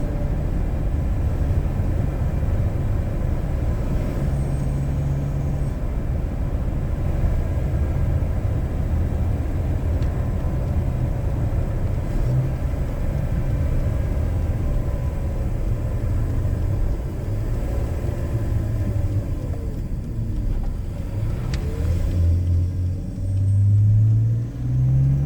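BMW E46 inline-six engine with a K&N cone intake running under a steady low rumble of road and tyre noise while the car cruises. Near the end the engine pitch climbs in short steps with brief dips in level as the car accelerates.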